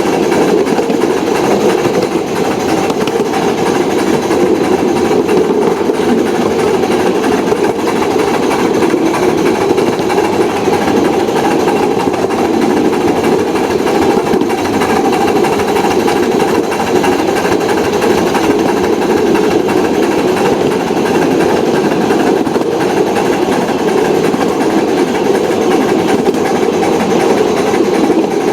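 Miniature railroad train running along its track: a steady mechanical rattle of wheels and running gear that holds unbroken.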